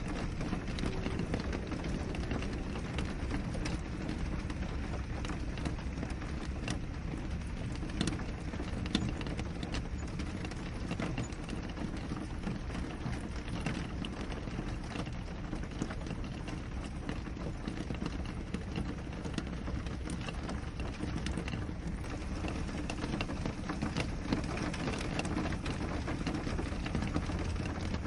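Steady rain falling on a window: a constant hiss dotted with many small, sharp drop taps, over a low rumble.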